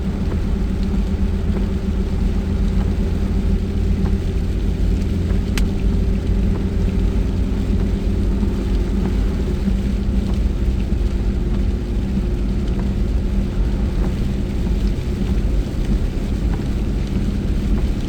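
Car driving at a steady speed, heard from inside the cabin: a steady low rumble of engine and road noise with a constant engine hum.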